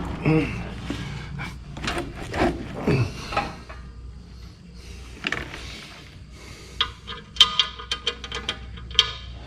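Hand tools knocking and clicking on metal parts while a bolt is worked into place. There are scattered knocks in the first few seconds, then a quick run of ringing metallic clicks near the end.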